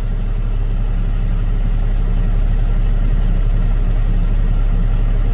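A large engine idling steadily with a deep, even hum.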